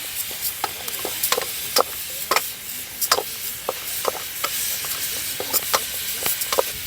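Rice frying in a pot with seasonings, sizzling steadily, while a spoon stirs it with irregular scrapes and clinks against the pot.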